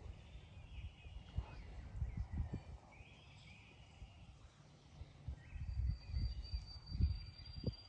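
Outdoor ambience: low rumbles and thumps of wind or handling on the microphone, with faint animal calls. A thin, steady high note begins about two-thirds of the way in.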